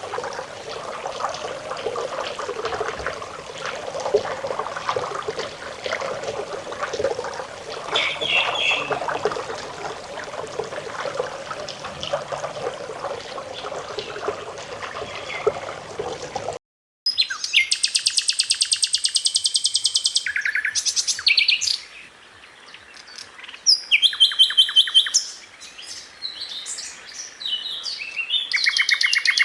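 Steady running-water sound of a trickling stream with one short bird chirp. It cuts off suddenly a little past halfway. Then a sikatan londo flycatcher sings fast, high rattling trills and quick bursts of sharp notes, in repeated phrases with short gaps between them.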